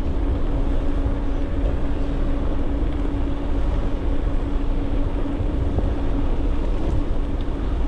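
Wind rumbling on the microphone of a moving e-bike, with a steady hum from the e-bike's motor under pedal assist that fades out about six and a half seconds in.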